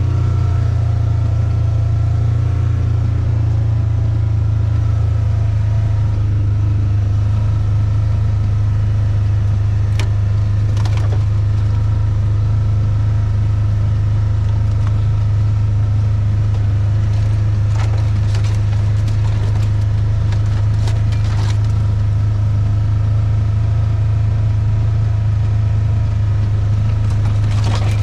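Steady low drone of a vehicle engine running at a constant pace, with scattered clicks and rattles about a third of the way in, in the middle and near the end.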